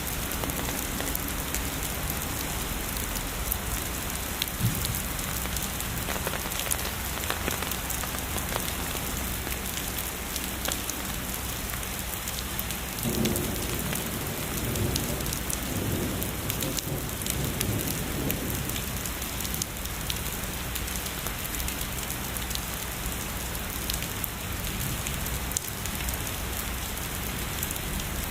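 Heavy rain falling steadily, with many separate drop hits. A low rumble of distant thunder rolls through about halfway and fades out a few seconds later.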